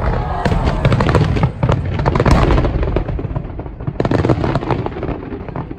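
Aerial fireworks shells bursting in a rapid barrage, many bangs and crackles overlapping. The barrage is densest through the first three seconds, eases off, and comes back in a second cluster about four seconds in.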